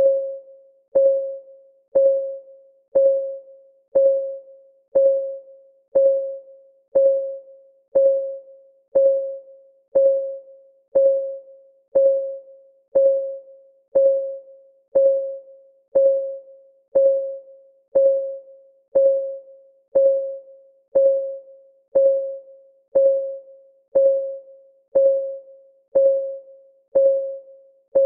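Clock ticking sound for a countdown timer: one tick every second, each a short click with a ringing tone that dies away quickly, in a steady, unchanging rhythm.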